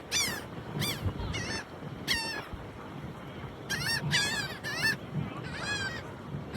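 Gulls calling repeatedly: a series of short, high calls, each falling in pitch, some in quick runs of two or three. They come from gulls crowding round to be thrown bread.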